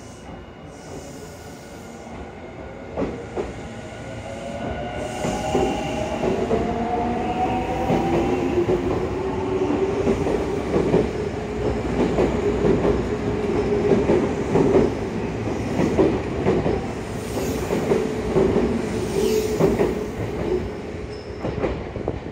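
Semboku Rapid Railway 7020 series electric train pulling away from a station platform. The motors' whine climbs in pitch as it gathers speed, and the wheels clack over the rail joints as the cars pass close by. The sound grows louder, then falls away near the end as the last car leaves.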